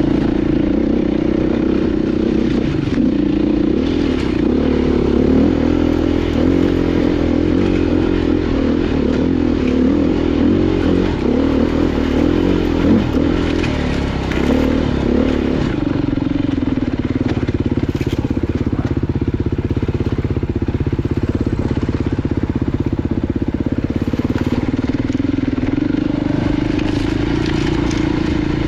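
Off-road motorcycle engine running steadily under riding load, its pitch settling a little lower about halfway through, with scattered crunching and scraping of stones under the tyres.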